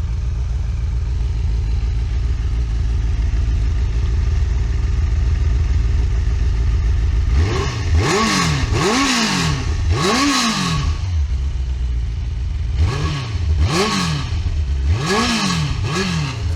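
Benelli TNT 600's inline-four running through a custom Z1K muffler and Y-pipe. It idles steadily at first, then the throttle is blipped three times about halfway through, and after a short idle four more quick revs follow near the end, each rising and falling.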